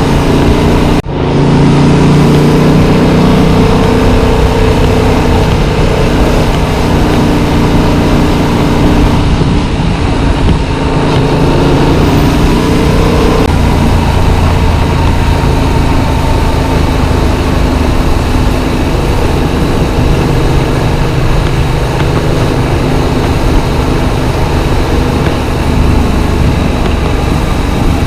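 Yamaha MT-07's 689 cc parallel-twin engine running under way, heard with heavy wind rush on the microphone. The engine note is strongest in the first dozen seconds and then sits lower under the wind, with a brief break about a second in.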